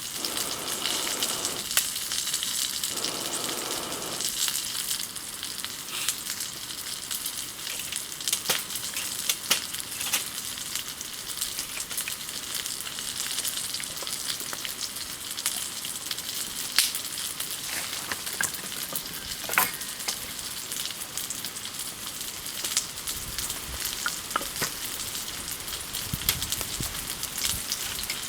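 Wood campfire burning, a steady hiss with many sharp crackling pops scattered through it.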